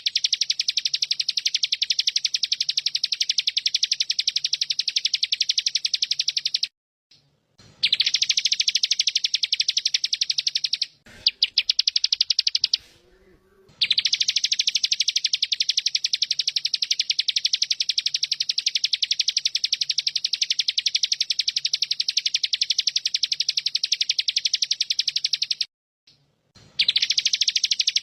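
A songbird singing a long, rapid-fire trill of fast, evenly repeated high chirps, the 'tembakan' burst song of a masteran recording, broken by brief pauses about seven seconds in, around eleven to fourteen seconds, and near the end.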